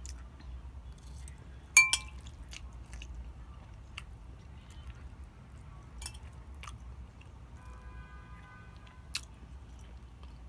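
Close-miked eating sounds: chewing and biting with scattered soft wet clicks. About two seconds in comes a sharp clink with a brief ring, the loudest sound here.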